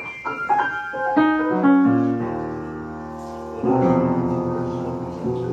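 Piano music: a run of single notes stepping down in pitch, then sustained chords, with a fresh chord struck about two thirds of the way through.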